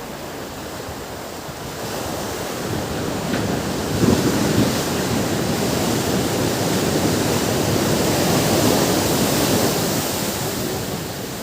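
Ocean waves washing onto a beach: one surge of surf builds about two seconds in, is loudest through the middle, and eases off near the end.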